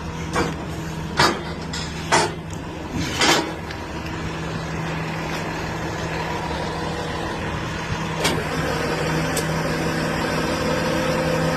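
Rollback tow truck's engine idling steadily, with a series of sharp clanks from the tie-down chains being handled, most of them in the first few seconds. A steady whine joins the engine sound in the last few seconds.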